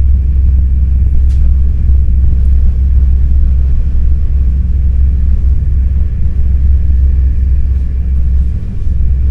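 Steady low rumble of an NS ICNG intercity electric train running, heard from inside the carriage, with a faint click about a second in.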